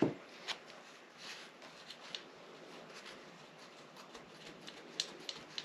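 Hand tools and metal engine parts being handled during engine disassembly: a soft knock at the start, then scattered light clicks and clinks, several close together near the end.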